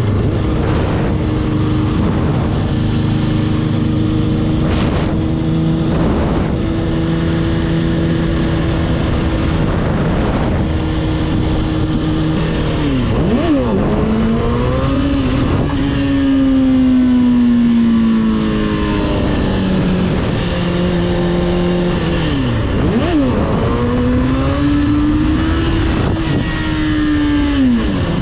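Motorcycle engine running on the road, its note holding steady for long stretches over wind and road noise. The pitch dips sharply and climbs back about halfway through and again near the end.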